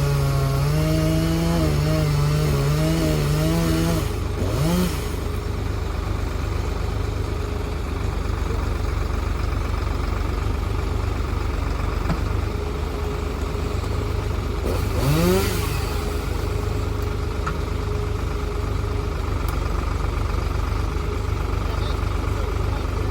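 Old tractor backhoe's engine running, its pitch wavering under load for the first few seconds, then settling to a lower steady run, with two short rises in pitch about five and fifteen seconds in.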